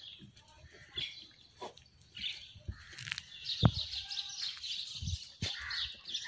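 Small birds chirping, with a few soft knocks and one sharp thump about three and a half seconds in.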